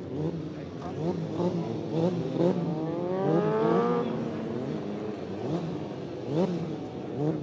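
Motorcycle engines revving in quick throttle blips, the pitch swinging up and down about twice a second, with one longer rev climbing in pitch about three seconds in.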